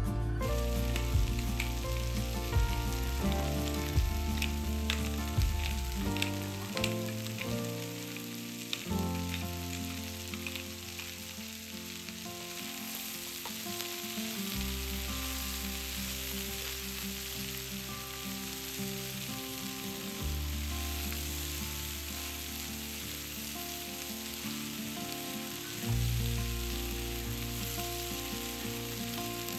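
Food sizzling and frying in a pan, a steady hiss, with clicks of a utensil against the pan during the first several seconds. Soft background music runs underneath.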